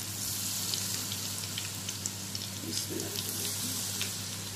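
Chicken pakoras deep-frying in a pan of hot oil: a steady sizzle dotted with quick crackles and pops. A low steady hum runs underneath.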